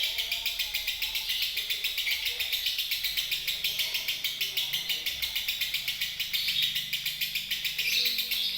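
Lovebird singing a long, unbroken chattering trill of rapid, evenly repeated high notes, about eight a second, with no pause. This is the nonstop 'konslet' style of song that Indonesian lovebird keepers prize.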